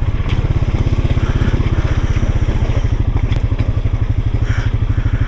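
Off-road vehicle's small engine running steadily at low speed with a fast, even throb.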